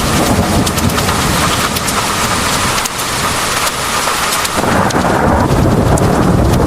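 Heavy rain pouring down, with dense patter and drop ticks, under a low rumble of thunder. The rumble eases about three seconds in and swells back a second and a half later.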